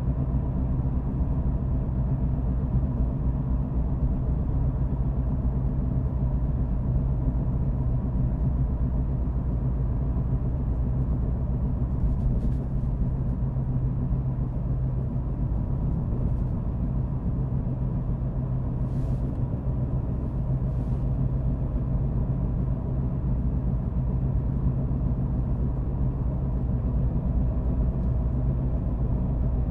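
Car driving at a steady speed: a continuous low engine hum and road rumble, with a few faint ticks about halfway through.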